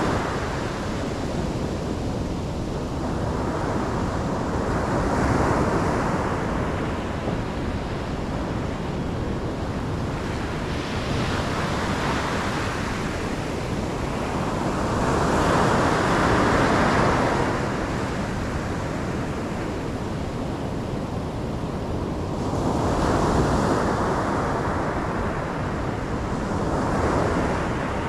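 Ocean waves breaking and washing ashore in a steady surf, with a louder swell every five or six seconds.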